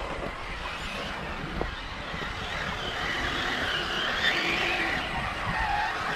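Scale RC crawler truck's electric motor and gear drivetrain whining as it crawls over rock, the pitch rising and falling with the throttle.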